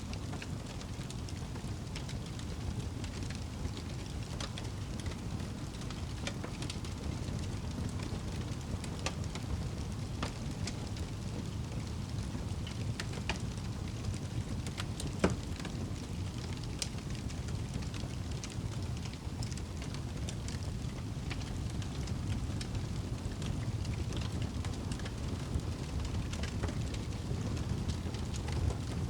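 Wood fire burning in a fireplace: a steady low rush of flames with frequent small crackles, and one louder pop about halfway through.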